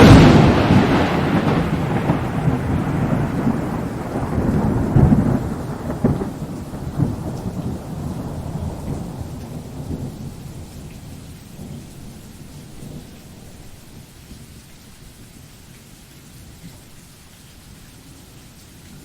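A sudden thunderclap followed by long rolling thunder that swells a few times and then fades away over about fifteen seconds, over a faint steady rain-like hiss.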